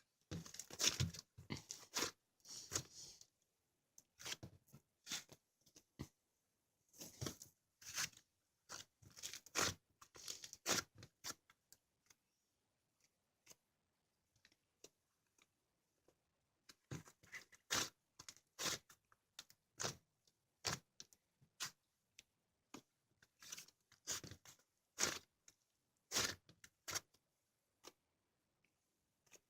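Cookies-and-cream slime being handled and squished by hand, giving bunches of short sticky crackles and clicks. There is a lull of a few seconds near the middle.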